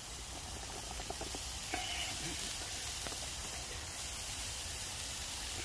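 Steady sizzling in a skillet over a campfire, with a few faint ticks.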